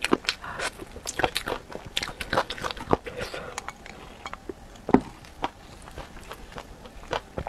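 Close-up chewing and biting on spicy chicken feet, with many quick sharp snaps and wet mouth sounds that thin out after a few seconds, and one loud click about five seconds in.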